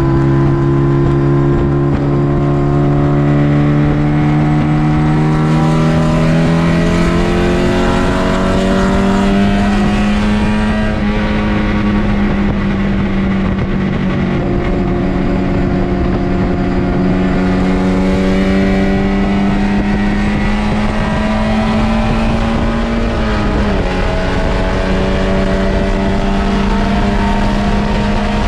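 MGB race car's 1.8-litre B-series four-cylinder engine running hard, heard from inside the car: the revs climb over the first ten seconds, hold high and keep rising slowly, then dip briefly a little past twenty seconds before pulling up again. Steady wind and road noise runs underneath.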